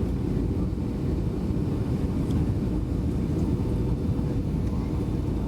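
Steady low rumble of engine and airflow noise inside the cabin of a Boeing 757-200 airliner, with a faint steady hum above it.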